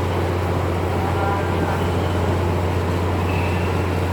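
Squid-fishing boat's engine running steadily, a constant low drone with no change in speed.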